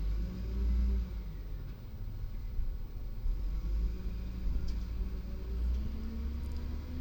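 Garbage truck engine running with a low rumble, its pitch rising a little near the end as it revs or pulls away.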